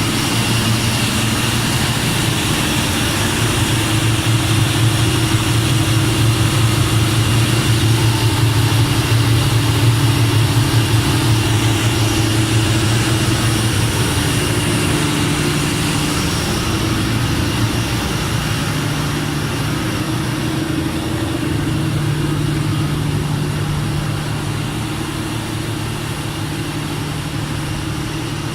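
Mitsubishi 600 kW diesel generator engine running steadily, a deep continuous drone.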